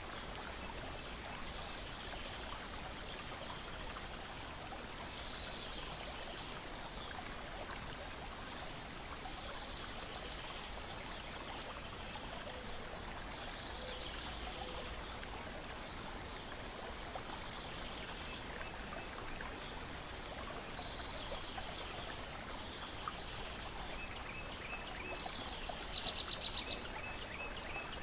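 Steady lapping and trickling of lake water, with faint bird chirps every few seconds. Near the end a bird gives a loud, rapid trill lasting about a second.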